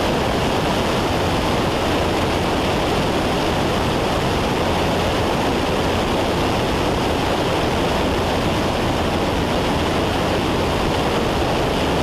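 Steady drone of engine and rushing air inside the cabin of a Cessna 172 in flight, constant throughout with no changes in power.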